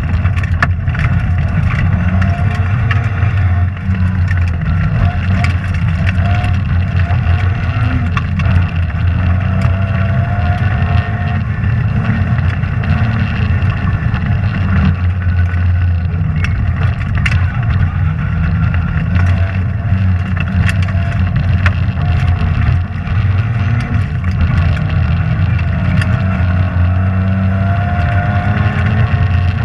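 Rally car engine running hard on a stage, its pitch rising and falling with gear changes and throttle, under a constant heavy rumble. Sharp clicks and knocks are scattered throughout.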